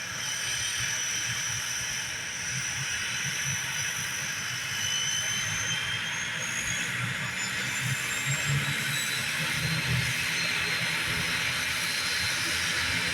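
ATR 72-600 turboprop engines running, a steady hiss and low rumble under high whining tones that slowly rise in pitch, growing a little louder.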